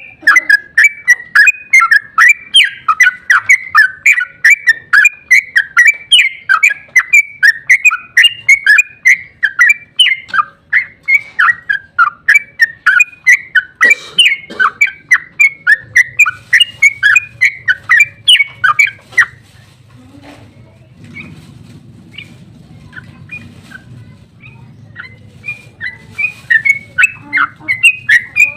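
Yellow-vented bulbul (trucuk) singing a long, rapid run of bubbly chirped notes, about four a second. The song breaks off about two-thirds of the way in and starts again near the end.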